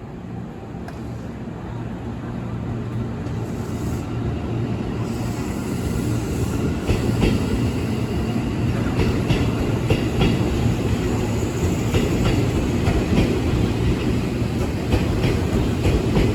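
JR 205 series electric commuter train approaching, its rumble growing louder over the first six or seven seconds, then running close by with a regular clickety-clack of wheels over the rail joints.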